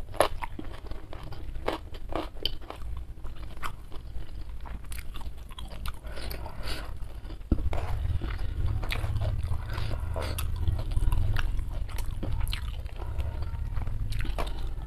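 Close-miked chewing with crisp crunching bites, then fingers squeezing and mixing rice and fish on a wooden tray, with a low rumble underneath from about halfway through.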